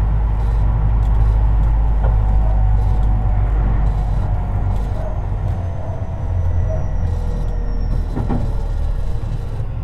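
Tobu 50090 series electric train running, heard from under the car floor: a heavy steady rumble of wheels on rail. A faint motor whine slowly falls in pitch as the train eases its speed. Two sharp knocks come through, about two seconds in and near the end.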